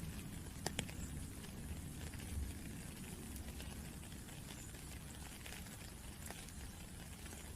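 Rain falling, a steady patter of drops with two sharper drip ticks just under a second in.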